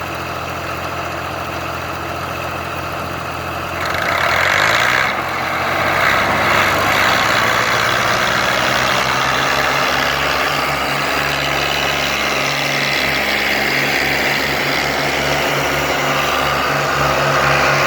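Tractor diesel engine running steadily, then revved up about four seconds in and held at high revs, as when straining to pull a stuck trolley.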